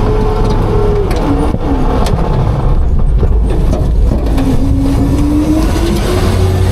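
Autocar-Heil front-load garbage truck's engine revved up for its hydraulics while packing, with a whine that slowly rises, falls and rises again over a heavy rumble.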